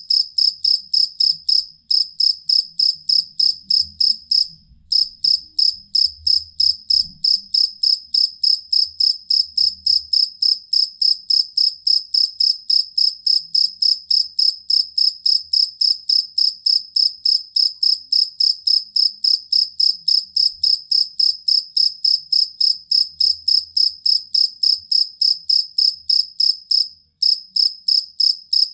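Field cricket (jangkrik kalung) chirping: a steady, high-pitched song of rapid chirps, about three to four a second, broken by two short pauses, one about four seconds in and one near the end.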